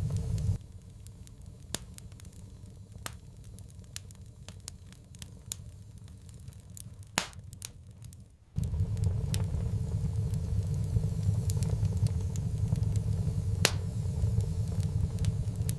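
Wood fire crackling, with scattered sharp pops and snaps. Under it runs a low rumble that cuts out abruptly about half a second in and returns just past the middle.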